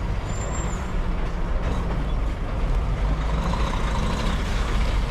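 Heavy goods lorry's diesel engine idling with a steady low rumble.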